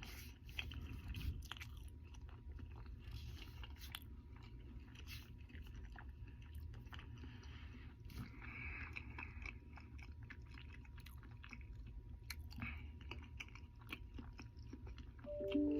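A person chewing a mouthful of burger close to the microphone, with soft wet mouth clicks. Near the end a few plucked notes of background music come in.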